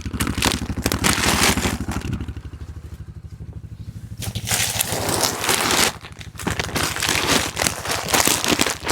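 A diesel engine idling steadily with an even low beat, under bursts of scraping, rustling and crinkling as sacks of chicken feed are shifted out of a truck bed. There is a quieter stretch with only the engine in the middle.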